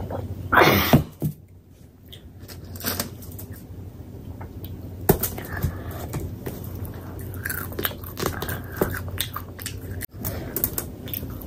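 Close-miked chewing of paratha: wet mouth smacks and short clicking bites scattered throughout, with a louder rustling burst about a second in.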